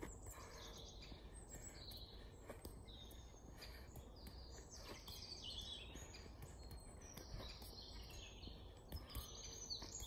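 Birds singing, with a run of high chirps and trills one after another over faint low background noise.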